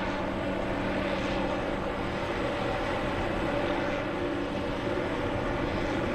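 Steady drone of an aircraft engine, with an even hum.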